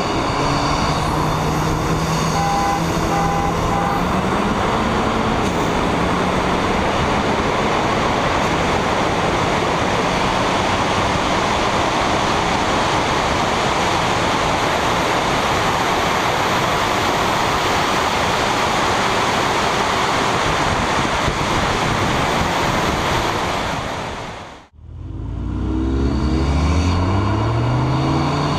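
Two tuned turbocharged cars running side by side at full throttle, heard from a camera mounted outside one of them. Heavy wind and road noise sits over the engines, whose pitch climbs in the first few seconds. Near the end the sound drops out abruptly for a moment, then returns with the engines revving up in several rising sweeps.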